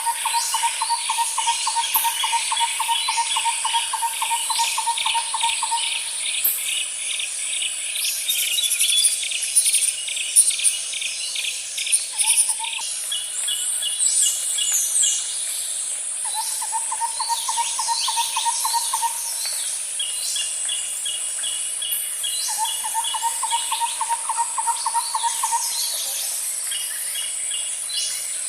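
Nature ambience: birds chirping and calling over a steady high insect drone. A lower pulsed trill comes in four bouts of one to six seconds, alongside rapid series of high pulses.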